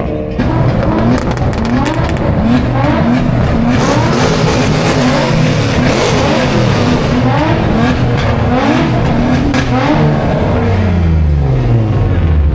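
A car engine revving hard up and down over and over, with tyres squealing, as when a car spins its wheels. Near the end the revs drop away in one long fall.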